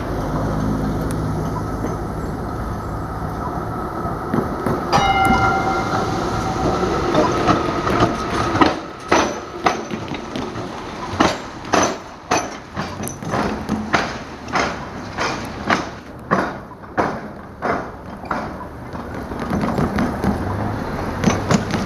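Train passing over the tram-track crossing diamond, its wheels knocking across the rail gaps in a long, regular series of clacks.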